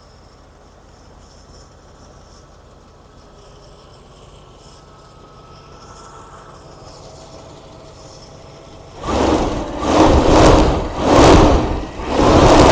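Mercedes-Benz 560 SEL's 5.6-litre V8 idling faintly just after a cold start. About nine seconds in, much louder rushing noise comes in three swells, then holds steady near the end.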